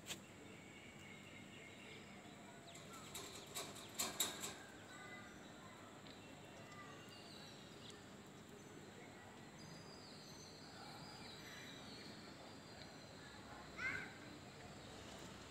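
Quiet outdoor background with faint bird chirps, a short run of rattling clicks about three to four seconds in, and one short bird call near the end.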